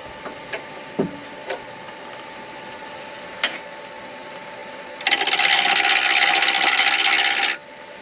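Turning tool cutting into an acrylic pen blank spinning on a midi lathe: a loud scraping cut of about two and a half seconds that stops abruptly, over the lathe's steady hum. A few sharp clicks and knocks come before it.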